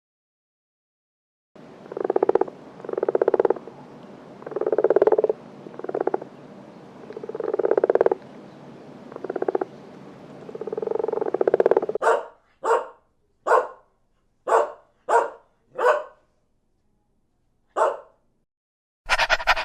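A series of animal calls: first about eight longer, buzzy, pulsed calls over a steady background hiss, then a run of short, sharp calls.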